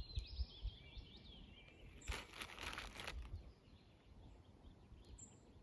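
Birds singing faintly with short chirping phrases. About two seconds in, a brief rustle lasts about a second.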